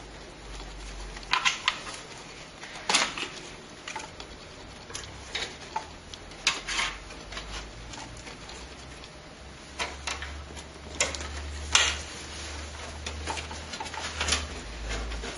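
Irregular light clicks and knocks of hands handling parts inside an open desktop PC case, with a low steady hum underneath.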